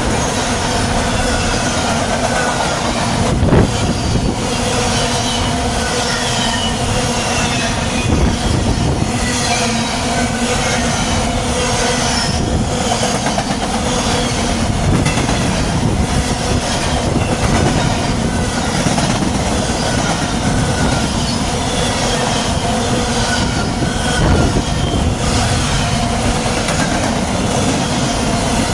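Freight train cars rolling past on steel wheels: a steady rumble with scattered clicks over the rail joints and thin, intermittent wheel squeal.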